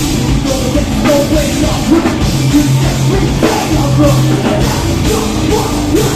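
Live metalcore band playing loud heavy music, with pounding drum kit and heavy guitars.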